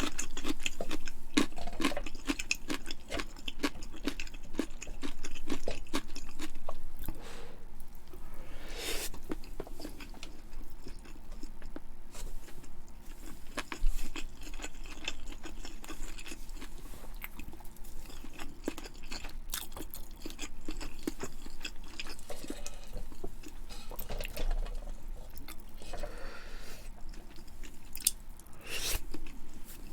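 Close-miked chewing: wet mouth clicks and smacks with small crunches, going on irregularly throughout.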